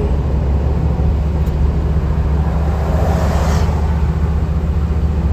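Van driving on the road: steady low engine and road rumble, with a brief rushing hiss that swells and fades about three seconds in.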